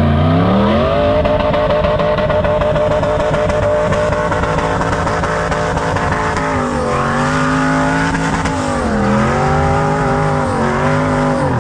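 Rock-crawling buggy engine revving hard. It climbs in pitch over the first second and is held at high revs, dips for a moment about nine seconds in, picks back up, then cuts off abruptly at the end.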